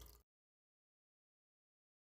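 Near silence: a brief tail of trickling water cuts off abruptly a moment in, then dead digital silence.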